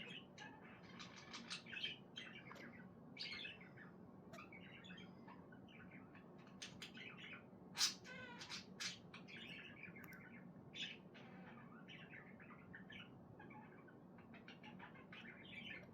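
A budgerigar softly chattering to itself while resting, a quiet run of short high chirps and warbles with one louder chirp about halfway through.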